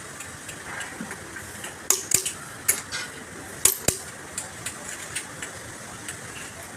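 Irregular sharp metallic clicks and knocks of hand tools on engine parts, the loudest a few strikes about two seconds in and two more near four seconds in, over a steady workshop background.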